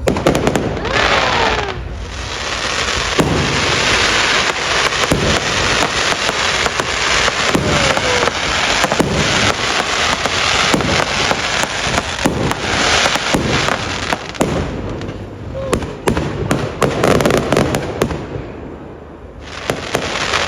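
Fireworks display: rapid volleys of bangs over dense crackling, with a few short falling whistles. It eases briefly near the end, then the bangs pick up again.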